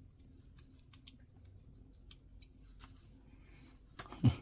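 Faint scattered clicks of plastic model-kit parts being handled and pressed together, with a louder knock near the end.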